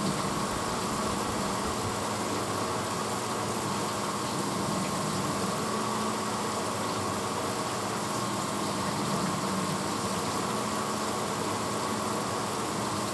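1986 Hotpoint Potwasher dishwasher running mid-cycle: a steady rush of water spraying inside the tub over the even hum of its pump motor.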